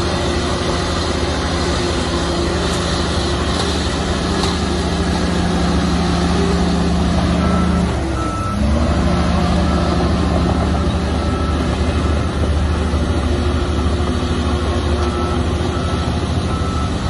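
Shantui bulldozer's diesel engine running under load, briefly dipping in pitch and picking up again about eight seconds in, with a reversing alarm beeping in short repeated tones around that dip and again near the end.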